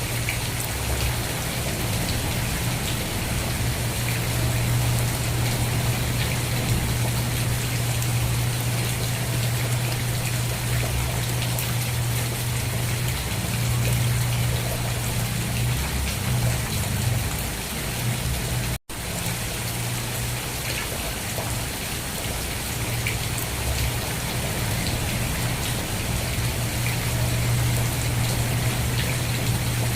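Steady rain, an even hiss of falling drops over a steady low rumble. The sound cuts out completely for an instant about nineteen seconds in.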